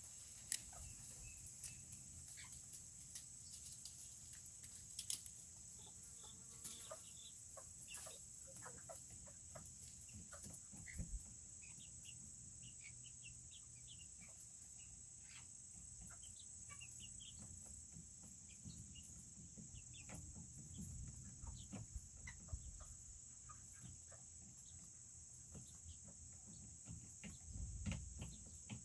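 Serama bantam chickens clucking and peeping faintly in short, scattered calls, over a steady high-pitched insect-like hum.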